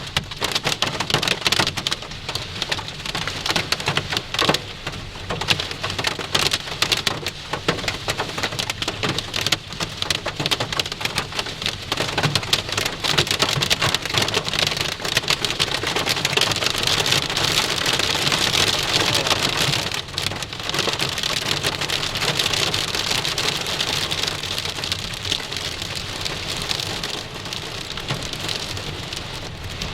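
Hail and heavy rain pelting a vehicle, heard from inside the car: a dense, continuous patter of many small hits on the roof and glass.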